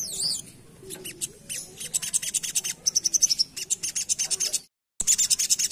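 A spiderhunter (sogok ontong) singing in fast chattering runs of high, sharp chirps, many a second. The runs are broken by a brief total cut-out about five seconds in.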